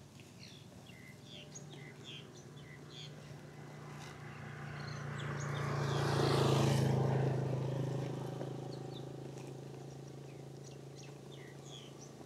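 A motor vehicle passing on the road, its engine hum and tyre noise swelling to a peak about halfway through and then fading away. Birds chirp faintly throughout.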